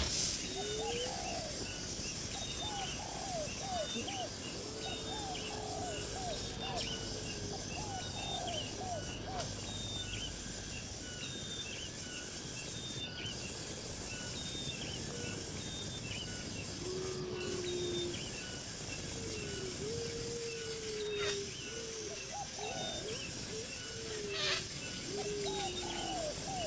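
Short, low bird calls, bending up and down in pitch and coming in groups, over a regular high chirping about twice a second and a steady hiss.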